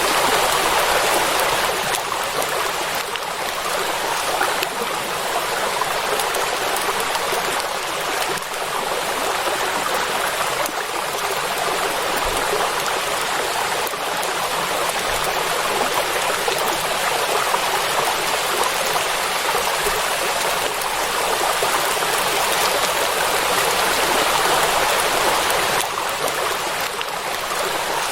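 Steady rain falling on a lake's surface: an even, unbroken hiss with no thunder.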